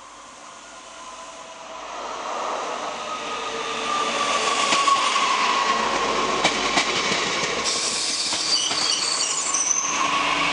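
Regional passenger train approaching and running along the platform, growing louder over the first few seconds and then holding steady with a whine. High-pitched metal squealing from the wheels joins in during the second half, as when a train slows to stop.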